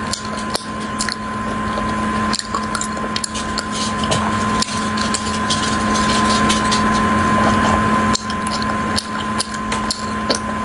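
Wet, sticky chewing and mouth clicks from eating a coconut-coated glutinous rice cake (mochi) with a chocolate filling, many short clicks over a steady hiss and hum.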